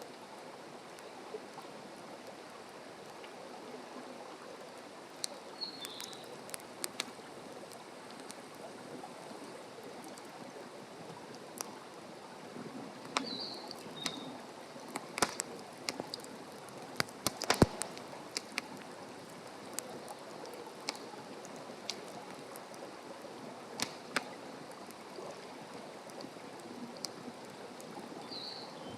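Wood campfire crackling, with sharp pops scattered throughout and thickest in the middle, over a steady background rush. Short high bird chirps come every several seconds.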